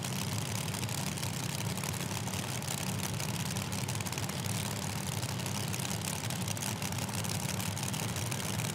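Drag race car engine idling with a steady, uneven low rumble.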